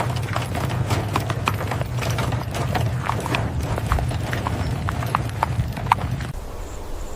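Rapid, irregular clicks and knocks over a steady low hum, stopping suddenly about six seconds in.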